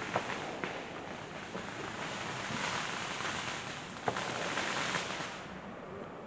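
Consumer fireworks going off: a steady crackling hiss with a few sharp pops, one just after the start and one about four seconds in. The hiss cuts off about five and a half seconds in.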